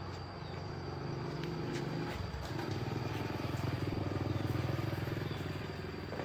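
A small engine running steadily with a fast, even pulse. It dips briefly about two seconds in, then runs louder.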